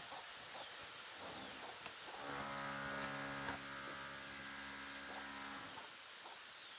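A cow mooing: one long, steady low call lasting about three seconds, starting a little after two seconds in.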